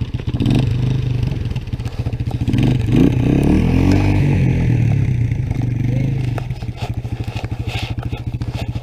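Honda 250SX three-wheeler's single-cylinder engine revving up and down while the machine is stuck in snow. About six and a half seconds in, it drops to a steadier, quieter run.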